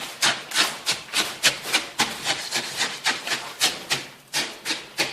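Rapid back-and-forth scraping or rasping strokes of a hand tool on a hard surface, about four or five strokes a second.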